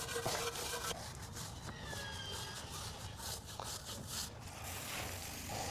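Stiff wheel and tire brush scrubbing a car wheel and tire coated in wheel cleaner, in short irregular rubbing strokes.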